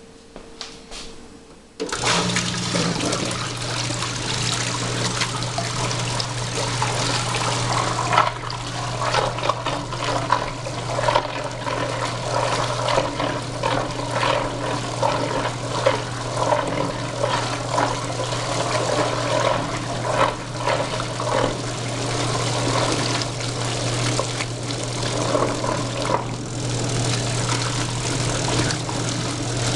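1973 Fridgette twin-tub washer starting up about two seconds in: the wash motor hums steadily while the offset bottom impeller churns the water in the tub with a turbulent sloshing.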